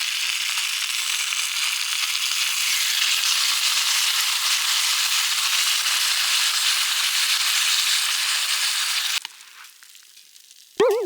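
Food sizzling loudly in a frying pan as a steady hiss, which cuts off suddenly about nine seconds in. Near the end comes a short, loud, wavering tone that fades away.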